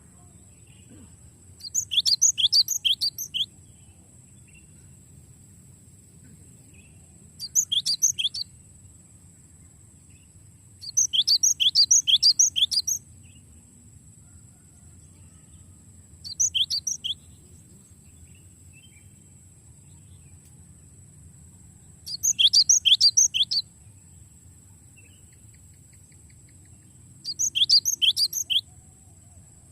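Cinereous tit (gelatik batu) singing: six phrases of rapid, repeated high notes, each phrase one to two seconds long, with a few seconds' pause between them.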